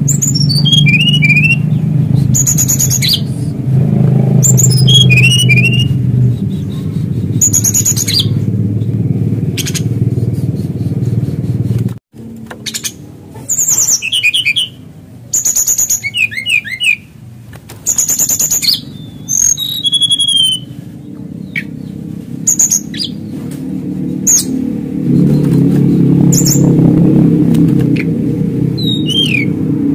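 Male brown-chested jungle flycatcher singing a challenge to a rival: short bursts of high chirps and quick down-slurred notes, repeated every second or two. A steady low rumble runs beneath it, cuts out abruptly about twelve seconds in, and builds back later.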